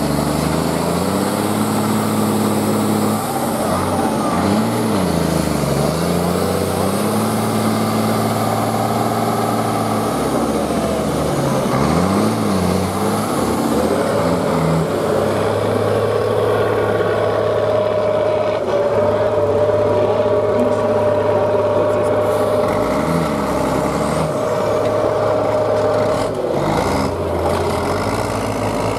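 Truck engine revving up and down again and again as the truck works over trial-course obstacles. From about halfway a steadier, higher whine joins it and holds until near the end.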